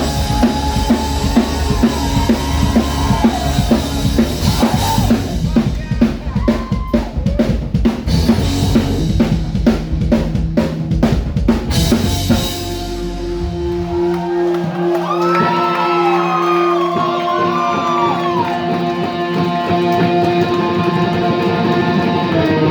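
Rock music: a drum kit plays busily for about twelve seconds, then drops out, and an electric guitar takes over with long held notes and bends.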